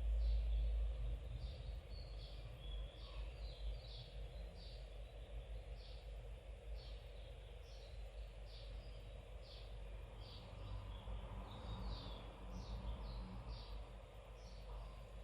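Small birds chirping over and over, short falling notes about twice a second, over a low steady rumble that is louder in the first second.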